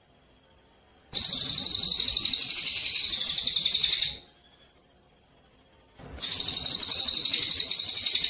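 Gereja cililin (a local Indonesian tree sparrow strain) singing two long, rapid, high-pitched trills of about three seconds each, with a pause of about two seconds between them.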